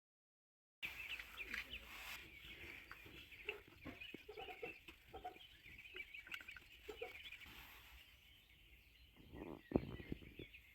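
Birds calling: short lower calls scattered about, over a busy high chirping, with a louder call a little before the end.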